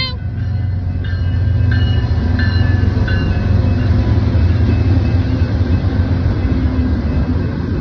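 Intermodal freight train passing close by: a loud, steady low rumble of its cars rolling on the rails. A few faint high tones come and go in the first three seconds.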